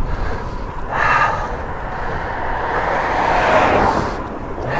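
Wind rumbling on the action camera's microphone on a moving road bike, with a passing vehicle swelling and fading about three to four seconds in.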